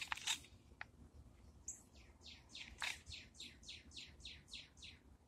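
A songbird singing a fast run of about a dozen down-slurred whistled notes, three or four a second, starting about two seconds in and ending near the end. A few short sharp sounds come right at the start.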